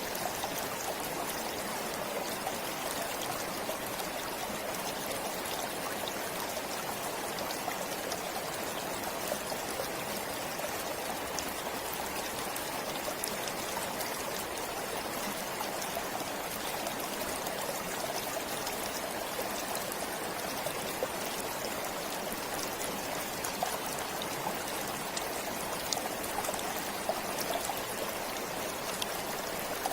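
Forest stream flowing steadily, water trickling and splashing over stones.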